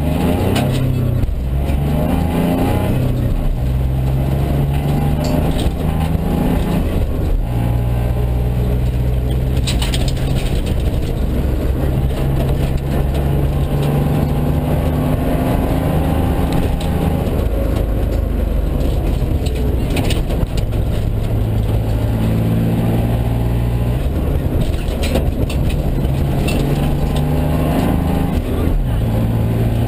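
Mitsubishi Colt rally car's engine at full stage pace, heard from inside the cabin: the revs climb and drop back repeatedly through the gears, with a few sharp knocks now and then.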